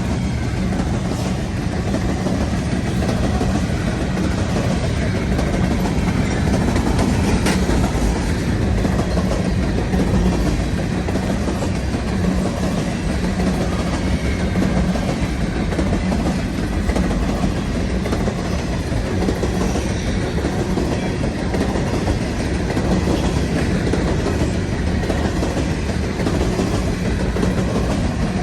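Empty potash train of freight cars rolling steadily past, wheels running over the rails, with one sharp click about seven seconds in.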